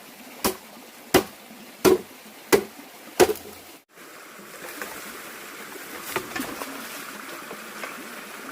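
A blade chopping into wood, five sharp strokes about one every 0.7 seconds. Then, after an abrupt cut, a steady rush of flowing water, like a stream, with a few faint knocks.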